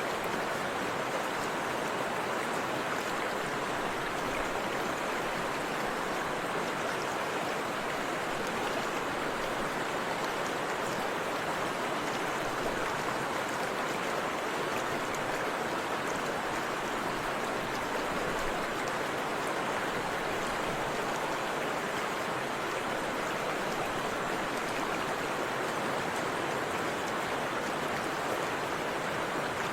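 Forest river water flowing and splashing in a steady, even rush.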